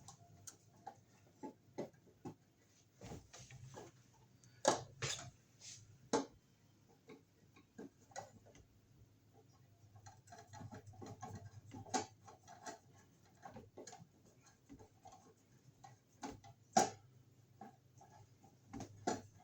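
Scattered small clicks and taps of a screwdriver and a metal screw against a plastic outlet cover plate as a cover screw is worked at without going in, with a few louder knocks.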